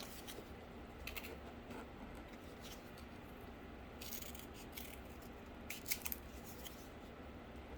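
Scissors snipping through cardboard: a few short, crisp cuts in small clusters, about a second in, around four seconds in and again around six seconds, over a faint steady hum.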